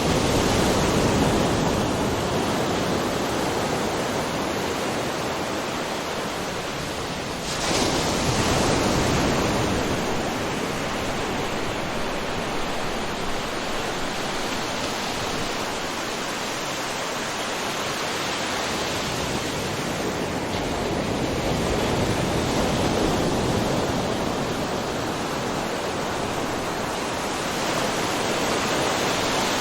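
Ocean surf: a continuous wash of waves breaking on the shore, with one wave crashing in suddenly about a quarter of the way through and slower swells rising and falling after it.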